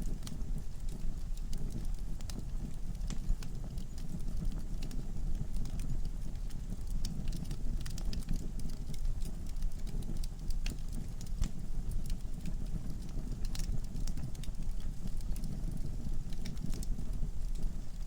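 Wood fire burning in a fireplace, crackling: frequent short, sharp snaps and pops of the logs over a steady low rumble of the flames.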